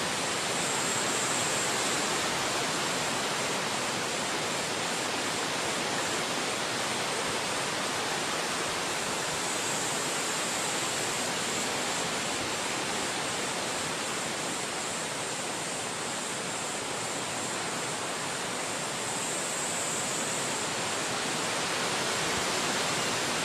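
Wind blowing steadily through forest trees, an even rushing hiss. A thin, high hiss on top of it swells three times, about a second in, around ten seconds in and near twenty seconds in.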